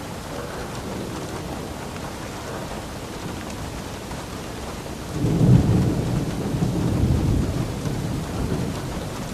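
Steady rain, with a roll of thunder that starts suddenly about five seconds in and rumbles on, fading, for about four seconds.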